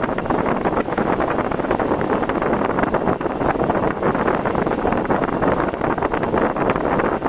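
Steady rushing wind and road noise from a car being driven.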